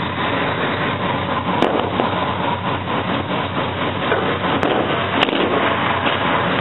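Vehicle engine running with a dense, rapid crackling rattle, and a few sharper clicks about one and a half, four and a half, and five seconds in.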